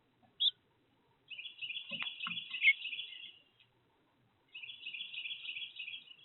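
A songbird singing: a short high call, then two long rapid twittering song phrases with a pause between them. Two faint low knocks come during the first phrase.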